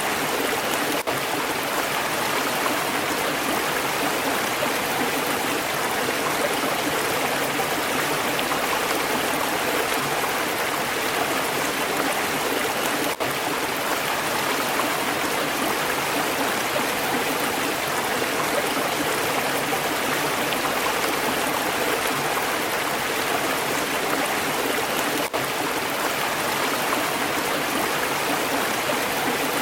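Stream water flowing steadily, a dense, even rush. There are three brief dips in level, about twelve seconds apart.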